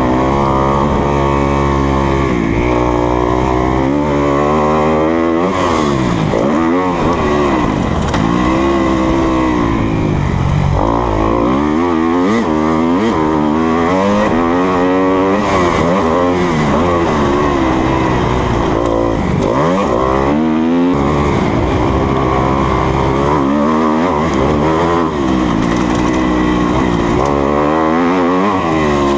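2020 Kawasaki KX250F's single-cylinder four-stroke engine under hard riding, revving up and dropping back again and again as the throttle is worked and gears change.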